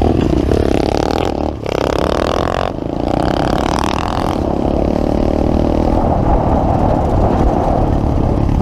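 Pit bike engine pulling away under throttle: it rises in pitch, breaks off briefly twice for gear shifts in the first three seconds, then runs at a steady speed.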